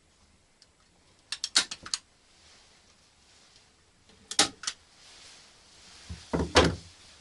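Three short bursts of sharp clicks and knocks a couple of seconds apart, the last one deeper and the loudest, like objects being handled or set down.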